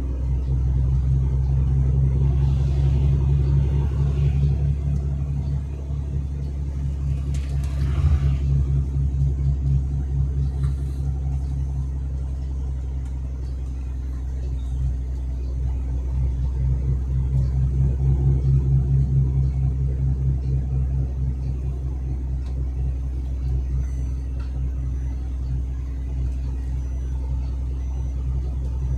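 Truck's diesel engine and road noise while driving: a steady low drone, with two brief swells of louder whooshing a few seconds in and about eight seconds in.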